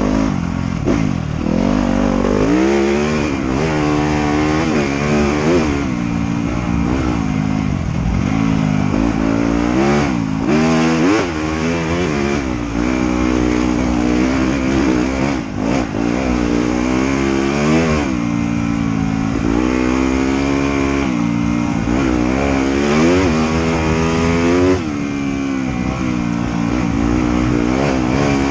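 Trail motorcycle engine revving up and easing off over and over as the rider works the throttle, its pitch rising and falling every second or two.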